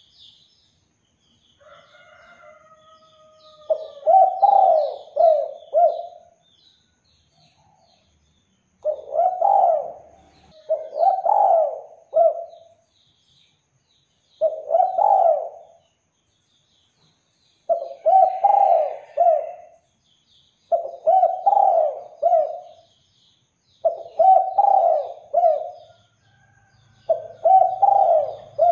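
Spotted dove cooing, over and over: about nine phrases of several low coos each, with short pauses between them. Faint high chirps of small birds sound in the background.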